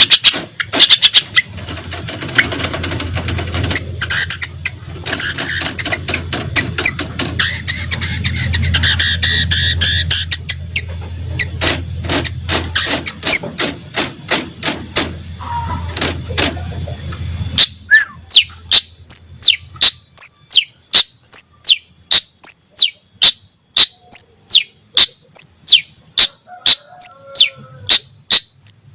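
Long-tailed shrike (cendet) singing, its song filled with canary and lovebird phrases. It opens with a fast chattering, clicking warble, then past the middle turns to a steady run of sharp notes sweeping downward, about two a second.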